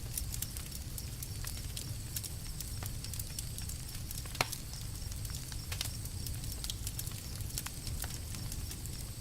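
Campfire crackling: irregular sharp pops and snaps over a steady low rumble, with one louder pop about four and a half seconds in.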